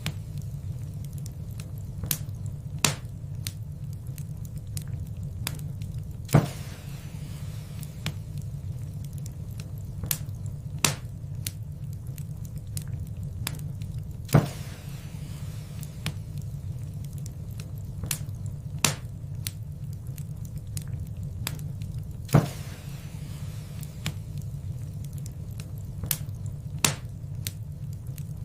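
Wood fire burning in a fireplace: a steady low rumble with scattered sharp crackles and pops, a few of them louder snaps.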